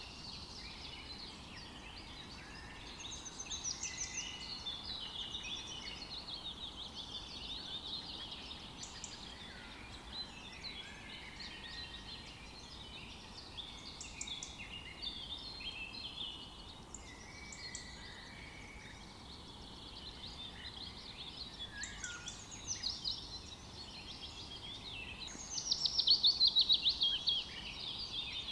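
A chorus of several songbirds singing and calling over each other in a forest, with a faint steady background hiss. The loudest moment is a fast trill of rapid repeated notes near the end.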